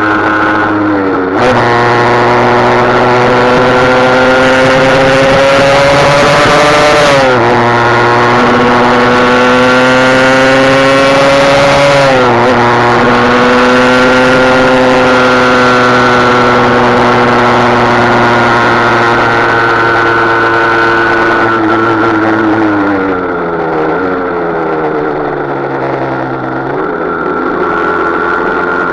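Husqvarna SM 125 motorcycle engine accelerating hard through the gears, its pitch climbing and dropping at each upshift about a second and a half, seven and twelve seconds in. It then holds speed and winds down, with a downshift near the end.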